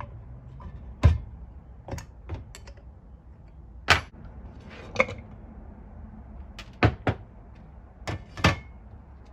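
Irregular sharp knocks and clicks, about ten of them, of tools and engine parts being handled and set down during the engine teardown.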